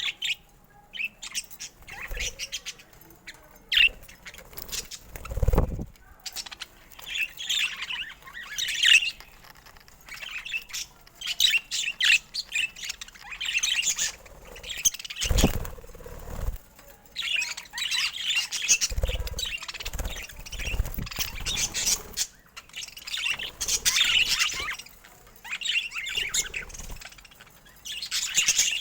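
Pet budgerigars chirping and chattering, short high chirps and warbles coming in bursts, with a few dull thumps now and then.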